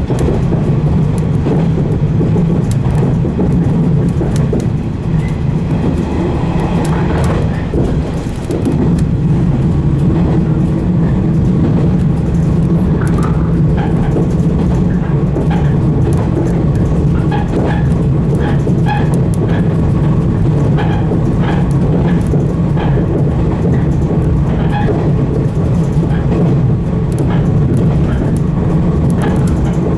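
A 115 series electric train running, heard from inside the front car: a steady heavy rumble of motors and wheels on rail. From about twelve seconds in, a run of short clicks rides over the rumble.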